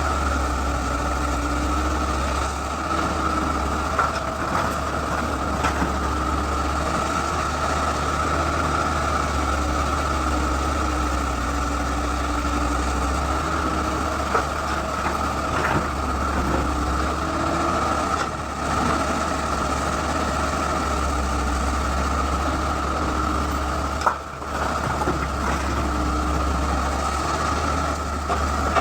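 Excavator's diesel engine running steadily with a constant high whine over the low rumble, broken by a few sharp knocks, the clearest one about 24 seconds in.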